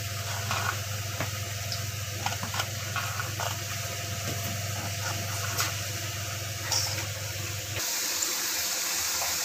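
Small knife clicks on a steel tray as potato pieces are cut, over a steady hiss and low hum. Near the end the hum stops and hot ghee sizzles brighter as potato pieces fry in the pan.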